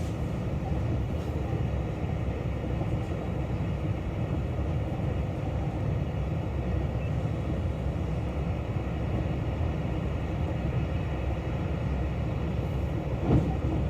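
Passenger cabin of a KiHa 261 series 1000 diesel railcar under way: a steady running rumble from the wheels on the rails and the underfloor diesel, with one short knock near the end.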